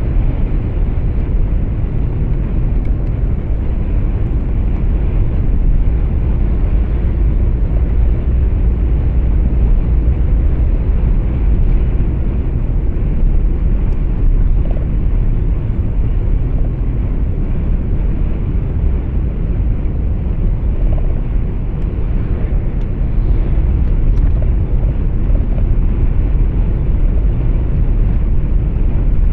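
Steady low rumble of a truck's engine and road noise heard from inside the cab.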